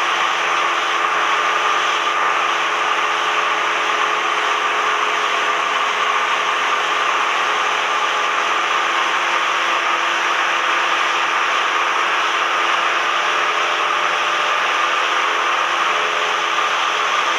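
Cessna 172M's four-cylinder Lycoming engine and propeller running at a steady, unchanging drone.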